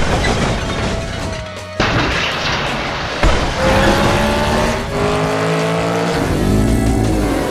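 Racing-engine revving and tyre-squeal sound effects over background music, with sudden loud hits about two and three seconds in. The engine pitch glides up and down through the second half. The sound is dubbed onto die-cast toy monster trucks racing down a ramp.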